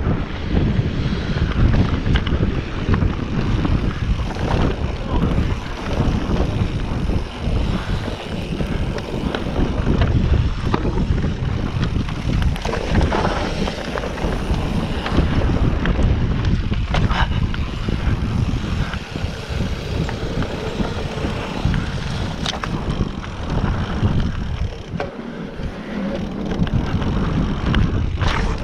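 Wind buffeting the microphone of a camera riding along on a mountain bike, mixed with the rattle of the bike and its tyres on a dirt trail, with a few sharp clicks or knocks.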